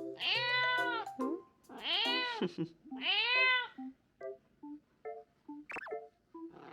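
A domestic cat meowing three times, each long call rising then falling in pitch, over light background music with short plucked notes.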